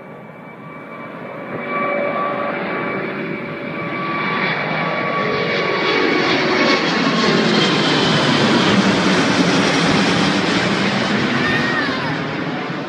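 Airbus A380 four-engine airliner at takeoff thrust passing by: a broad jet rumble that swells to its loudest about two-thirds of the way through and then eases, with whining engine tones that fall in pitch as it goes past.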